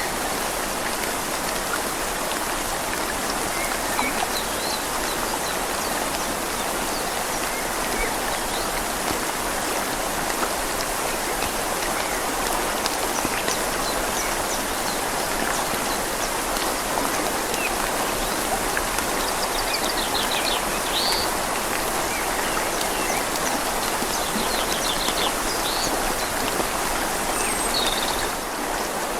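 Steady rain falling on leaves over a flowing river, an even rushing hiss of water. A few faint bird chirps and trills come through in the last third.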